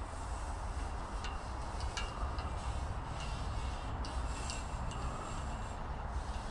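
Wind buffeting the microphone, with a few scattered light clicks and taps.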